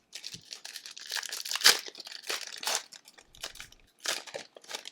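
Hockey card pack wrapper being torn open and crinkled by hand, a run of irregular crackles with the loudest tear about two seconds in.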